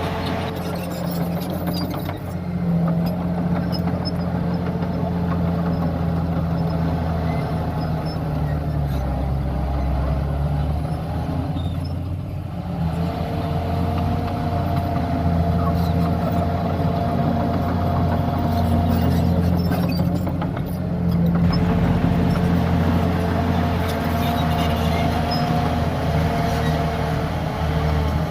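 Heavy diesel earthmoving machinery running steadily under load, a deep engine drone with a higher whine that fades out twice and returns.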